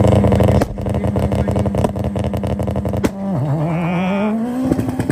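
A red Toyota Celica's engine held at high revs, stuttering rapidly and evenly, during a burnout to warm the tyres for a drag launch. A little over three seconds in, the revs drop sharply and then climb again in a wavering rise.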